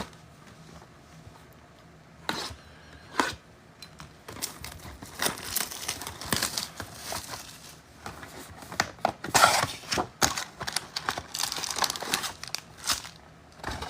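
Plastic trading-card packaging crinkling and tearing as it is handled and opened: two sharp snaps a couple of seconds in, then several seconds of steady crackly rustling.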